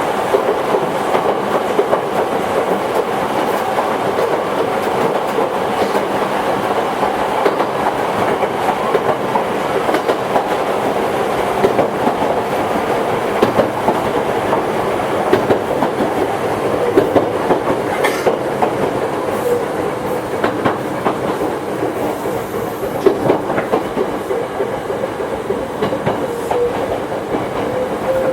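Toyohashi Railway 1800 series electric train, a former Tokyu car, running along the line: a steady rolling noise with the clickety-clack of wheels over rail joints.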